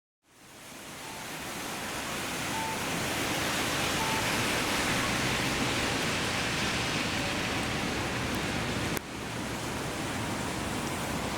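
Steady hiss of heavy rain, fading in over the first couple of seconds, with a brief dip and a click about nine seconds in.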